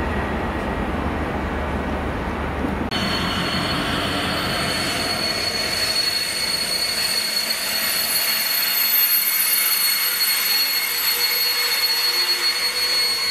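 A passenger train running past with a low rumble. Then, after a cut about three seconds in, a GBRf Class 66 diesel locomotive hauling a freight train of box wagons passes close by, its wheels squealing in high, steady tones.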